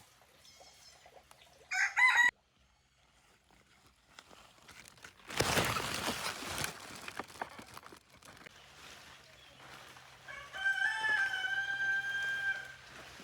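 A rooster crowing: one long, held crow near the end, after a short loud call about two seconds in. A burst of noise comes in the middle.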